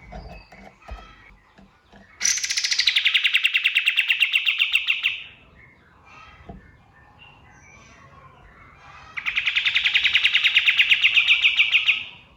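Kapas tembak songbird singing two long, loud, fast-pulsing trills of about three seconds each, the first opening with a falling sweep, with fainter bird chirps between them.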